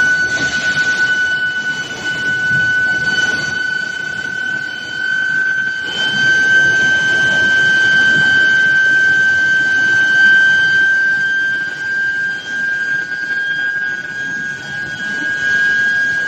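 Induction heating furnace giving a steady high-pitched whine, one tone with overtones that creeps slightly higher in pitch, over a low background noise of machinery.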